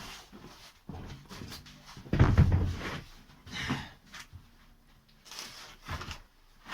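Knocks and clunks of spare car wheels being carried and set down on a garage floor, with one loud, heavy thud about two seconds in.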